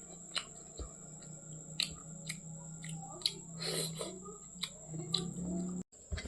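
A person chewing food close to the microphone, with many short wet mouth clicks over a steady low hum.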